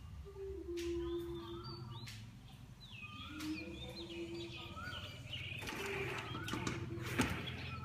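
Birds calling outside: repeated low held cooing notes of doves, with higher, quick chirps from other birds. A rustling scrape comes about two-thirds of the way through, with a sharp click near the end.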